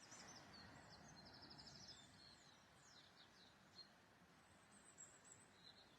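Faint songbirds singing: scattered high chirps and whistled notes, with a quick trill of rapidly repeated notes about a second and a half in, over a soft steady background hiss.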